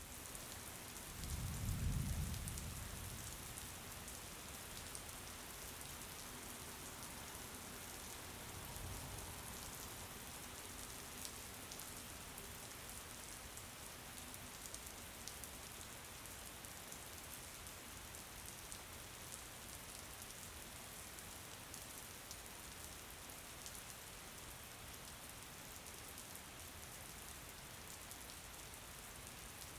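Steady rain falling, with the patter of individual drops, and a short low rumble about two seconds in and a fainter one a few seconds later.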